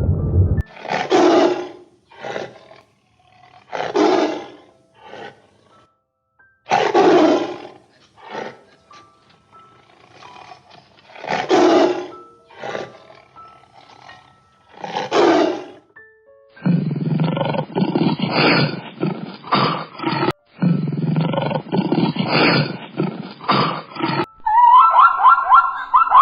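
A large animal roars over and over: a loud, breathy roar about every three to four seconds, with shorter grunts between. From about two-thirds of the way in, a different, dense rasping sound takes over, and near the end a higher, pitched call begins.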